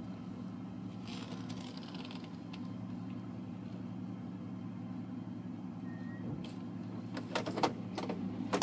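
1997 Chevy truck's engine idling steadily through true dual straight pipes, with a few sharp clicks or knocks near the end.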